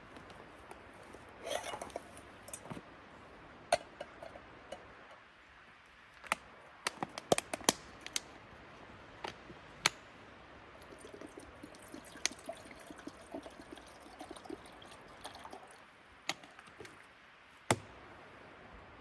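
Scattered sharp clicks and knocks, a dozen or more at uneven intervals, over a faint steady hiss, with soft liquid sounds in between.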